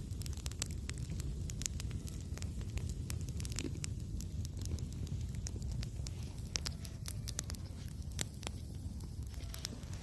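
Wood campfire crackling, with sharp irregular pops and snaps throughout over a low, steady rumble.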